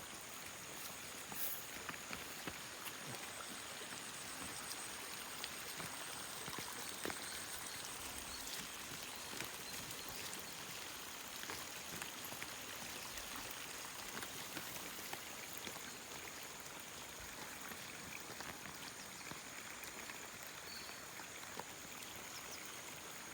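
Steady rush and patter of running water, with fine scattered splashes and a constant high-pitched insect drone above it.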